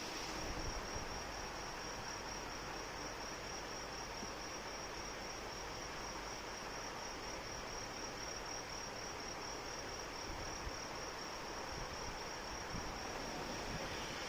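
Steady rain with insects chirping, a continuous high, rapidly pulsing trill over the even hiss of the rain.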